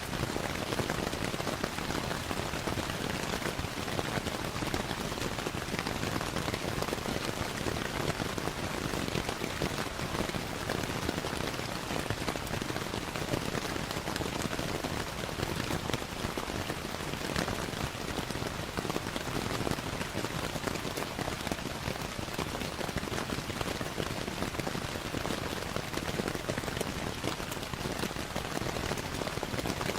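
Steady rainfall mixed with a crackling fireplace: a dense, even hiss with many small ticks throughout.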